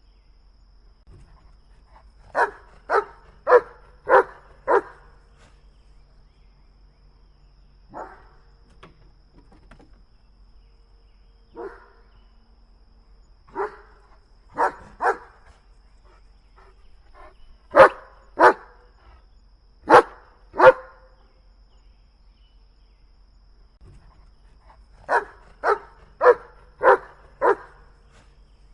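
Dog barking in short volleys of one to five sharp barks, with pauses of a few seconds between them.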